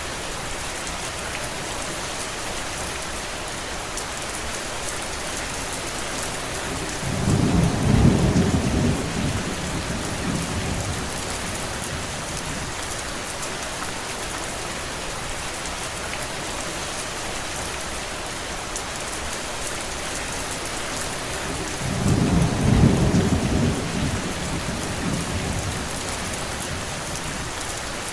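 Steady rain falling as an even hiss. Two low rumbles swell and fade over a few seconds each, the first about seven seconds in and the second about fifteen seconds later.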